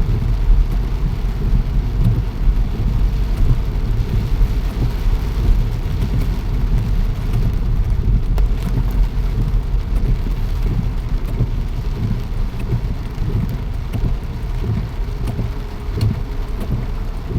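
Rain falling steadily as a hiss, over a loud, continuous low rumble that stays constant throughout.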